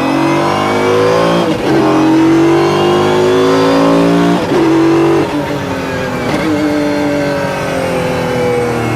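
Mercedes-Benz CLK GTR's V12 racing engine accelerating hard through its sequential gearbox. Its pitch climbs and is cut by three quick upshifts.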